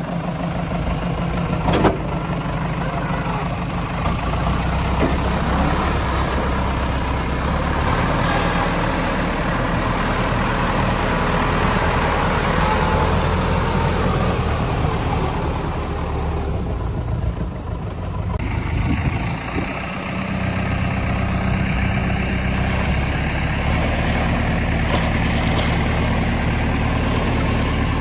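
Heavy vehicle's diesel engine running steadily at idle, with a short knock about two seconds in.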